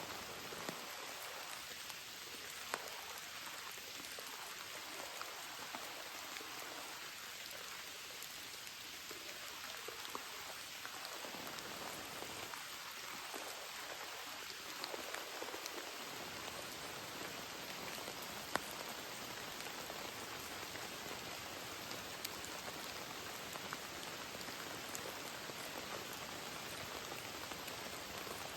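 Rain falling steadily, with a few sharper single drop hits standing out now and then.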